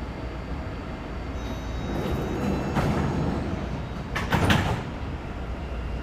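Taipei Metro C381 train's sliding doors closing before departure, over the train's steady low hum. There is a knock about three seconds in and a louder clunk as the doors shut about four and a half seconds in.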